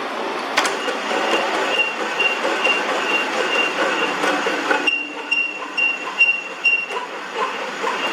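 Metal lathe running while cutting iron, with a high squeal from the cut that pulses about twice a second; the sound thins somewhat about five seconds in.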